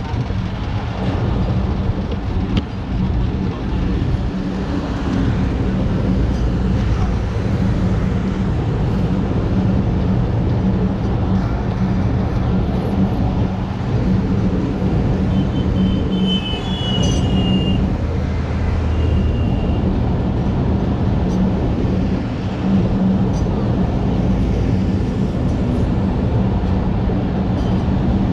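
Local passenger train running steadily: a continuous rumble of the wheels on the rails with a steady low hum, and a few brief high squeaks just past the middle.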